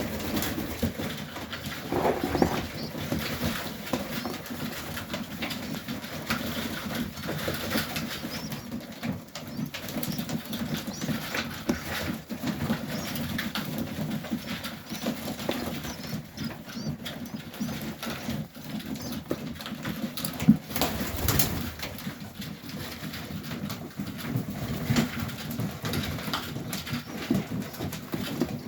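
Young Serbian Highflyer pigeons in a loft cooing and shuffling, with many small scratching and fluttering sounds. There is a louder burst of movement about twenty seconds in.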